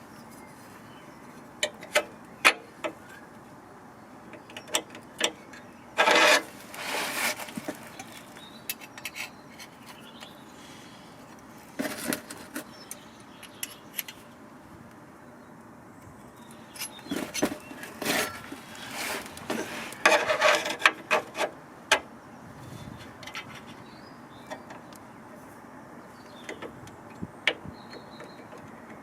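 Scattered clinks, clicks and knocks, like tools or metal parts being handled, with a few short scraping or rustling bursts, the loudest about six seconds in and again around twenty seconds in.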